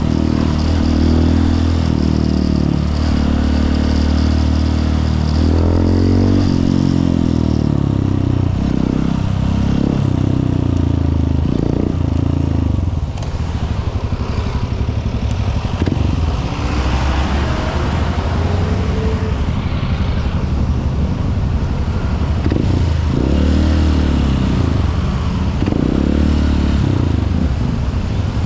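Honda CRF150L's single-cylinder four-stroke engine under way, its pitch rising and falling several times as the rider opens and closes the throttle through the gears.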